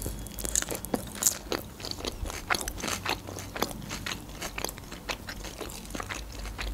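Close-up chewing of a mouthful of Caesar salad made with napa cabbage: a steady run of short, crisp crunches.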